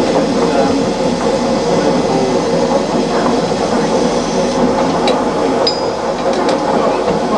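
Steady railway noise, a dense rumbling clatter, with a few sharp metallic clinks and a brief high ping about five to six and a half seconds in.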